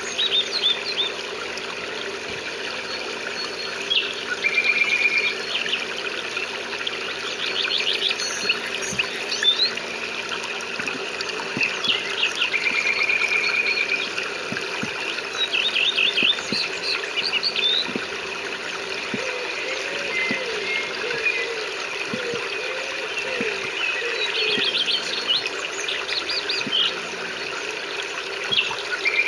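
Songbirds singing in repeated short phrases every few seconds, quick runs of high notes alternating with brief trills, over a steady background of rain and trickling water.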